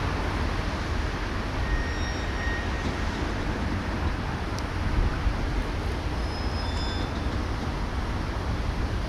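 Steady low rumble and hiss of outdoor background noise, with a few faint short high chirps and a single click about halfway through.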